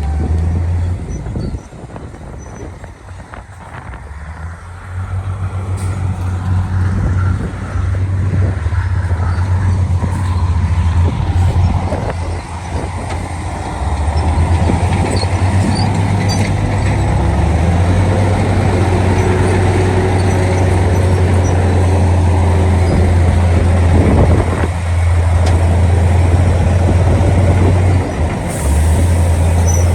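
Diesel engine of heavy earthmoving machinery running with a deep, steady drone. It drops quieter for a few seconds near the start, then comes back up and holds loud.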